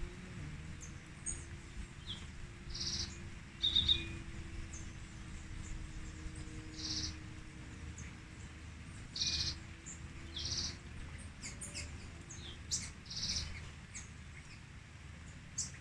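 Birds calling: short calls repeated every few seconds, the loudest a little under four seconds in, with thin high chirps in between.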